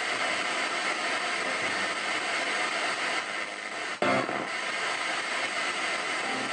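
Ghost box (spirit box) radio sweeping in reverse through stations: a steady hiss of static, briefly breaking off with a sharp click about four seconds in.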